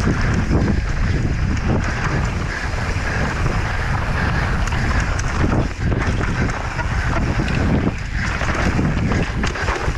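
Wind buffeting the microphone of a mountain-bike rider's camera on a fast descent, with scattered knocks and rattles from the bike over rough ground.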